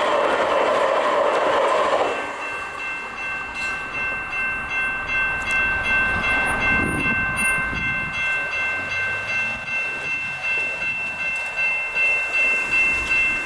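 Railroad crossing bells ringing in a steady pulse of about two strokes a second while a train passes over the crossing. A louder horn-like sound runs for the first two seconds and then cuts off.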